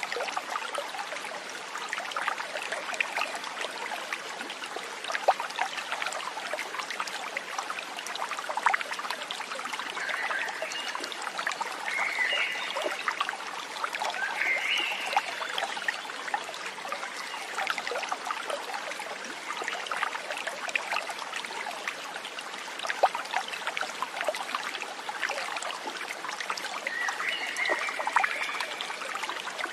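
Shallow stream trickling and babbling steadily over stones, with a few brief high calls from an animal now and then.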